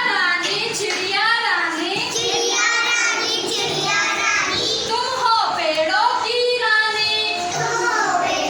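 A child singing a Hindi nursery rhyme in a high voice.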